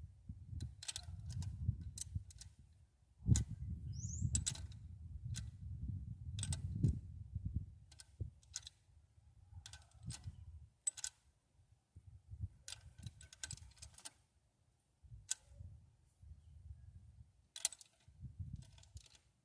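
Scattered metallic clicks and taps of hand tools working on a Ford V8's rocker arms during valve adjustment, over a low, uneven rumble, with a brief squeak about four seconds in.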